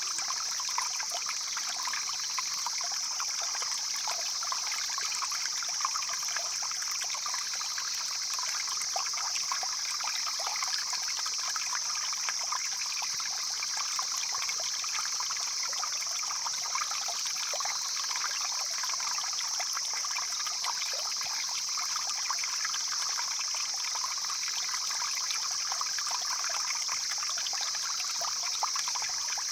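Stream flowing steadily: a continuous rush of running water with a strong high hiss and small splashes throughout.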